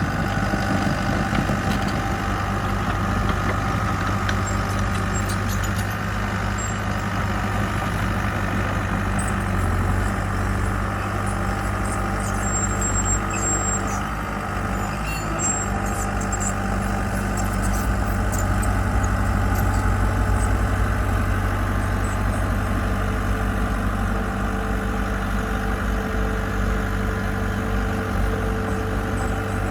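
A construction machine's diesel engine running steadily with an even, unbroken hum.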